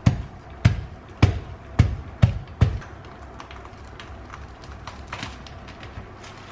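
A durian being opened: six sharp knocks about half a second apart, then a few faint clicks and taps.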